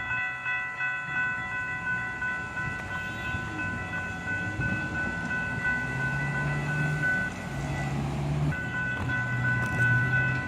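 Grade-crossing warning bell ringing rapidly and steadily. It cuts out briefly about eight seconds in and then starts again: the crossing signals are tripping on and off before the train arrives. A low hum comes and goes in the second half.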